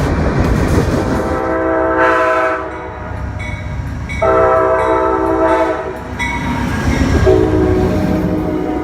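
Train passing with a low rumble while its air horn sounds a chord in long blasts: one about a second and a half in, a second in the middle, and a third starting near the end.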